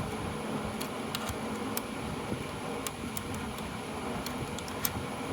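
A steady low hum, with a few scattered light clicks of a wrench and metal parts as a small bolt is backed out of a Delco starter.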